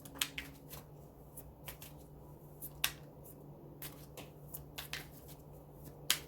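Scattered small clicks and light rustling as letter pieces are handled and drawn one by one, with a faint steady hum underneath.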